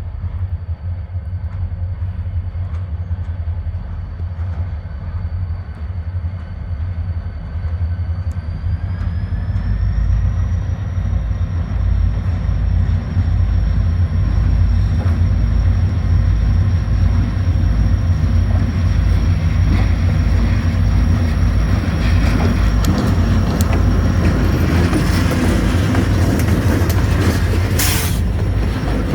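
EMD SD40-2 diesel-electric locomotives, their V16 two-stroke diesels rumbling steadily as a consist of several units pulls a train past, growing louder about ten seconds in. A thin high whine rises in pitch around the same time, and the rolling noise of the train builds toward the end, with a brief high hiss near the end.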